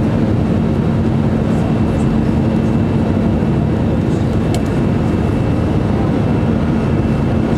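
Steady engine and airflow noise inside the cabin of an Airbus A319, with a constant low hum running through it.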